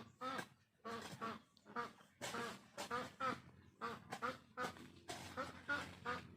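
A rapid series of short, repeated animal calls, about two or three a second.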